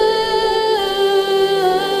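Song with a female voice holding long sung notes that step down in pitch, played through a Xiaomi Mi Bluetooth speaker.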